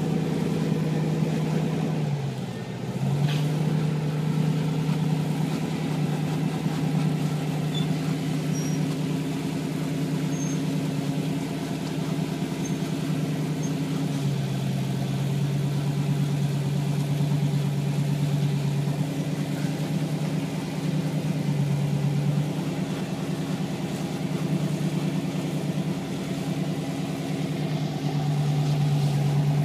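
Rock-crawling buggy's engine running at low, fairly steady revs under light throttle, dipping briefly about two seconds in and stepping slightly up and down in pitch as the throttle changes.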